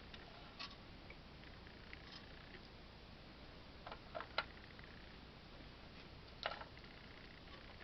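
Faint room tone with a few light clicks and taps from small die-cut paper leaves being picked out and placed: one tap about half a second in, a quick cluster of three around four seconds, and another near six and a half seconds.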